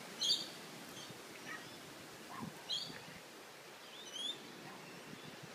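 Small birds chirping a few times: short, high chirps just after the start, again near the middle, and a rising one near the end, over a faint steady outdoor hiss.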